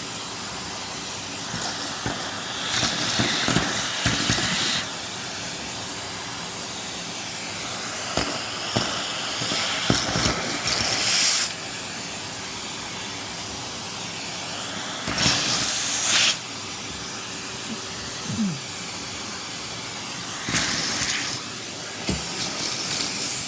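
Henry cylinder vacuum cleaner running with a steady hiss of airflow, with several louder stretches of rushing, clicking noise as pieces of snack food are sucked up.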